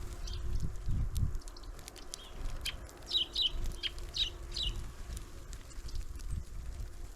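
Small birds at a winter feeder giving short, high, down-slurred calls, about half a dozen in a quick cluster near the middle, over scattered sharp ticks and a low rumble.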